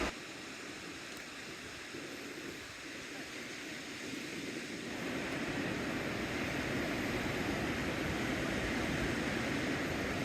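Sea surf washing on the shore, a steady rush with no distinct breaks, growing louder about five seconds in.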